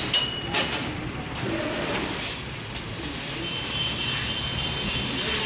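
CNC sheet-metal cutting machine at work on steel plate: a steady hiss of cutting noise, with a few sharp clicks near the start.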